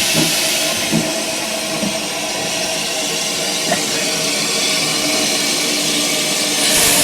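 Steam locomotive hissing steadily, with a few soft knocks in the first two seconds; the hiss grows louder near the end.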